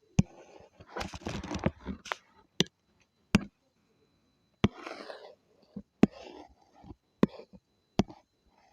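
Drawing sounds: scratchy strokes of a pen or brush across a surface, about a second in and again near the middle, among about eight sharp taps of the tool being set down or tapped.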